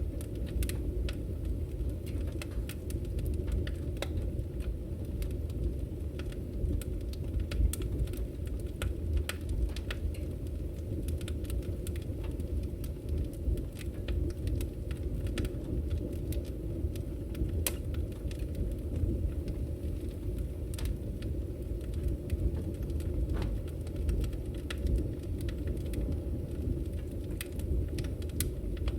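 Wood fire burning in a fireplace: a steady low rumble of the flames with frequent, irregular sharp crackles and pops from the firewood.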